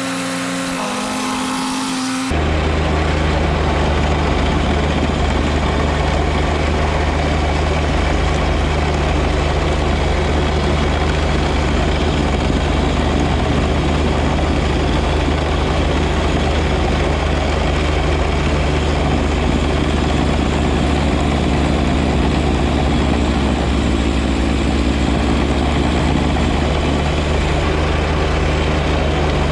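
John Deere 1025R compact tractor's three-cylinder diesel engine running steadily under load while driving its 54-inch front snow blower. A few held tones at the start cut off suddenly about two seconds in, when the engine and blower sound begins.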